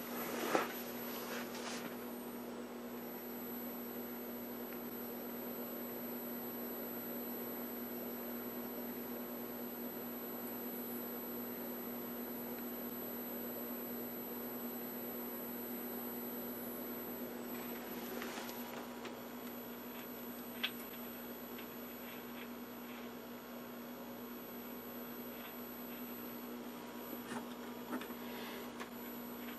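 Philco Predicta Princess vacuum-tube TV chassis running on the bench: a steady electrical hum over a low hiss, with a few faint clicks.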